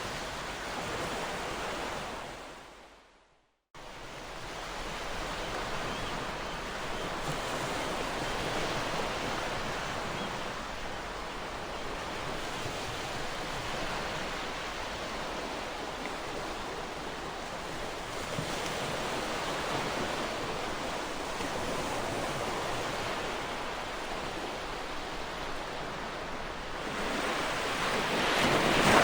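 Ocean waves washing on a shore, a steady rushing surf. About three seconds in, the sound fades to silence and cuts back in abruptly a moment later, a splice between recordings. A wave swells louder near the end.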